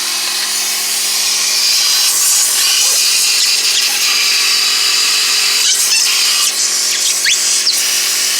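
A power tool running steadily on the ball joint nut, a continuous whirring without breaks or clear hammer blows.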